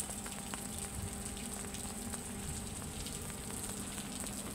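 Rain pattering on a steel truck flatbed: a steady crackling hiss with scattered drop ticks, over a faint steady low hum.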